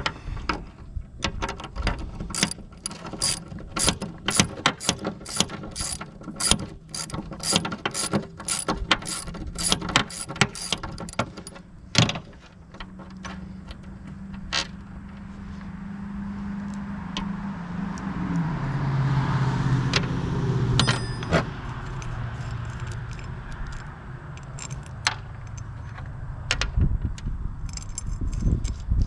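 Socket ratchet clicking in repeated strokes, about two a second, while turning bolts on a mower deck's bearing mount. After about 12 seconds it stops. A steady low hum follows and drops in pitch about 18 seconds in, with a few stray clicks.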